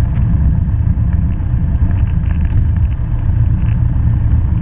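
Cessna 172 Skyhawk's piston engine and propeller running steadily, a constant low rumble heard inside the small plane's cabin.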